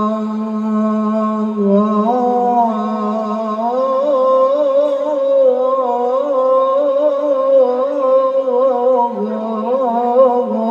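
A man singing sholawat in Arabic, unaccompanied in style: he holds one long steady note, then about two seconds in rises into a winding melismatic run with a fast vibrato.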